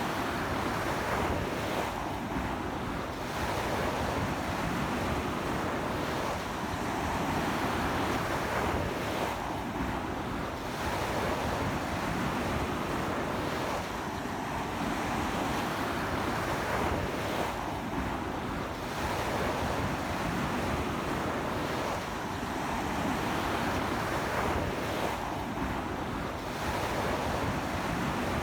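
Ocean surf washing onto a beach in a strong sea wind: a constant rush of breaking waves that swells and eases about every four seconds.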